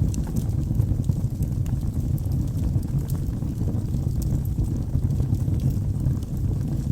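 Wood logs burning in a fireplace: a steady low rumble of flames with frequent small crackles and pops scattered throughout.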